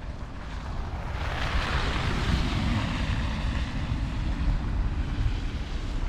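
A car passing on a snow-covered road: tyre hiss swells about a second in and then slowly fades. Low wind rumble on the microphone runs underneath.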